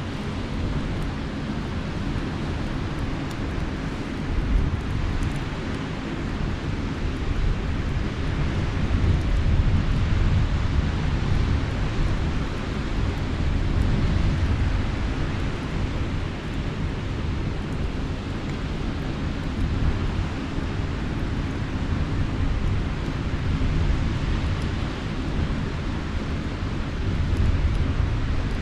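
Steady low rumble of sea waves on the shore mixed with wind, swelling and easing every few seconds.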